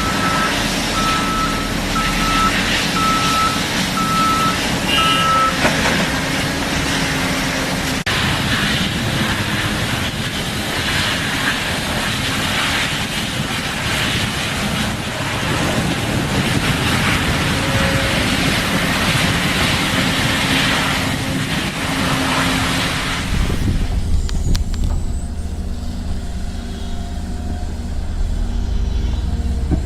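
Heavy construction machine's diesel engine running loud, with a reversing alarm beeping about twice a second for the first five seconds or so. About three-quarters of the way through, the sound changes to a lower, steadier engine running.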